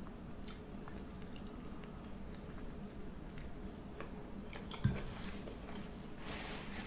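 Faint close-up chewing: soft wet clicks of a mouth working food. A low thump about five seconds in.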